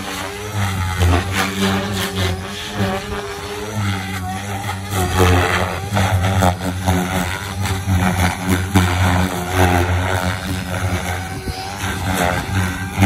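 Electric RC helicopter (OXY5 HF with an X-Nova brushless motor) in flight, its motor and rotor pitch wavering up and down as the load changes, with repeated blade swooshes.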